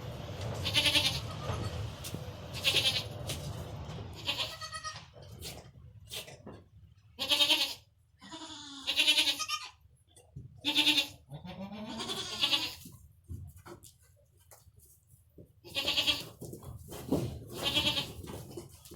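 Goats bleating: a doe and her newborn kid calling on and off, about ten short calls with gaps between them, some high-pitched and some lower.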